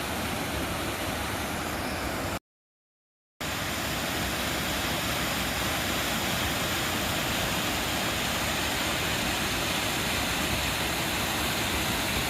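Steady rushing of fast-flowing water, an even roar across all pitches, broken by a second of dead silence at an edit cut about two and a half seconds in.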